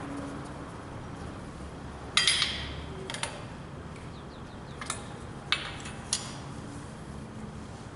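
A handful of sharp metallic clinks and knocks, spaced irregularly, the first about two seconds in the loudest with a short ring, over a faint steady background.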